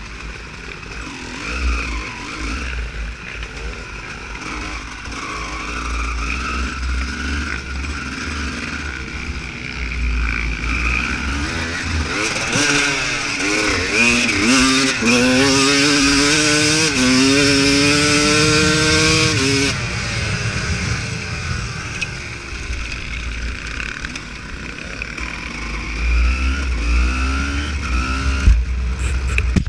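Dirt bike engine accelerating, its pitch climbing in several steps with brief drops between them as it shifts up. It fades out after about eight seconds. A steady low rumble of wind and riding noise runs underneath.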